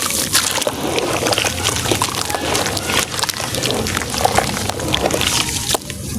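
Moulded sand and cement shapes crumbling into water in a tub: a steady pouring, crackling stream of many small crunches and grains.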